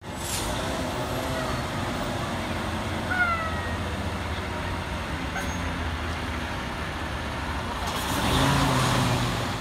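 A large truck's engine running steadily, with a few short squeals around three seconds in and a louder rushing swell near the end.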